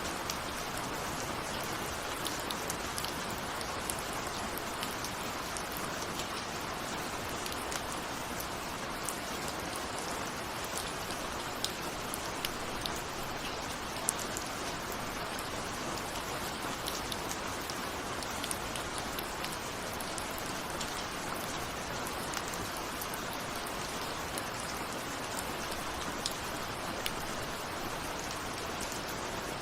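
Steady rain with individual raindrops ticking on a window, an even hiss with scattered sharper drop strikes and no thunder.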